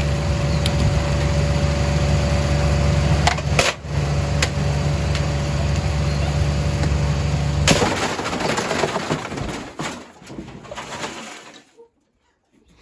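Hoover H Wash 300 washing machine running hard with a loud steady motor and drum hum, broken by a sharp knock a few seconds in. Shortly after halfway there is a sudden loud crash, the hum cuts off, and a clattering fades away over a few seconds.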